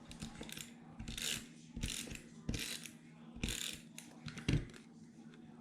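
Paper and craft supplies being handled on a work table: about five short rasping scrapes, one after another.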